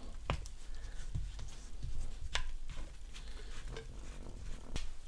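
A few sharp clicks and knocks from handling the metal parts of a Ryobi pressure washer's pump during disassembly, with a faint low rumble underneath.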